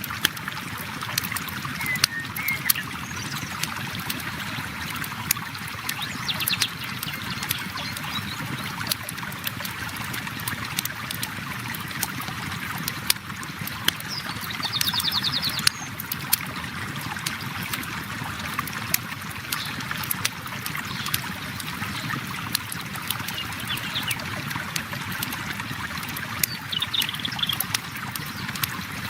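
Steady flowing river water with a campfire crackling over it in frequent sharp pops. A few short, high trills come and go.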